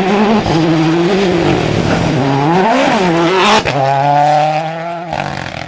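A World Rally Car's 1.6-litre turbocharged four-cylinder engine on full song, its revs climbing and dropping as the car works through the stage. A sharp crack about three and a half seconds in, then the engine holds a steady note before fading away.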